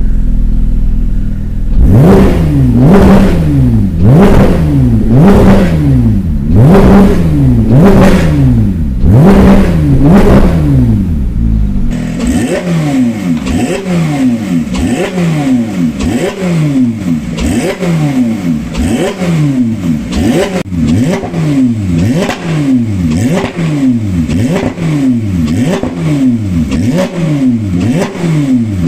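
Porsche 991.2 GT3's naturally aspirated 4.0-litre flat-six through an Akrapovic titanium full exhaust, exhaust valves open, idling and then free-revved in place. There are about five long revs some two seconds apart, then from about twelve seconds in a quicker run of short throttle blips, roughly one a second, with less deep rumble.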